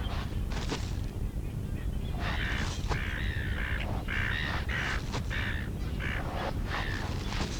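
Birds calling: a series of short, repeated calls starting about two seconds in, over a steady low rumble.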